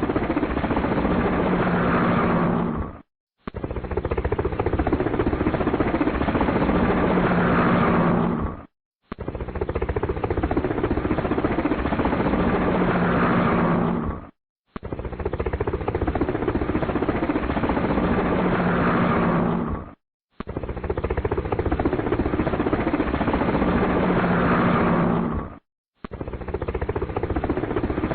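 Helicopter sound effect, the engine and rotor noise of a clip about five and a half seconds long looped over and over. Each repeat dies away and drops out for a split second before starting again.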